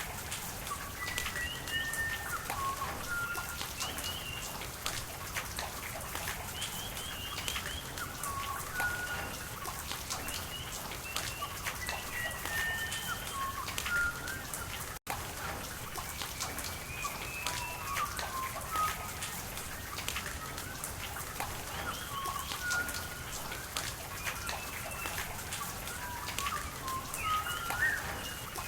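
Steady rain with drops pattering over a wash of running water, and small birds chirping repeatedly throughout. The sound drops out for an instant about halfway through.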